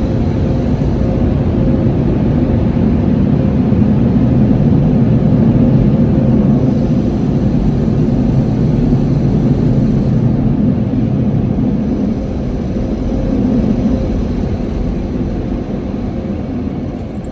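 Automatic car wash equipment running: a loud, steady rushing noise with a faint steady hum in it, easing a little near the end.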